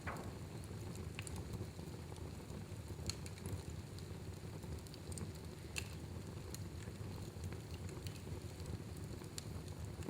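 Wood fire burning in a fireplace: a steady low rush with scattered small crackles and pops, a sharper pop right at the start.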